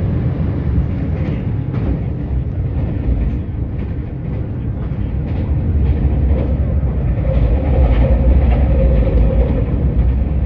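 JR Shikoku limited express diesel train running along the track: a steady low rumble with faint wheel clicks, growing somewhat louder in the second half.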